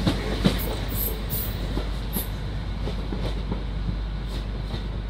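Hull Trains Class 802 passenger train moving along the platform, its wheels clicking over the rail joints, with a few brief high wheel squeals in the first second and a half.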